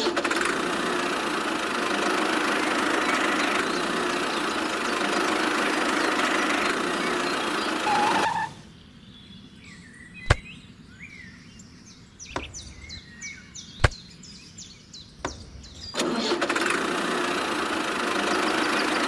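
Tractor engine running steadily for about eight seconds, then cutting off abruptly. A quiet stretch follows with a few sharp clicks and faint bird chirps, and the engine sound comes back near the end.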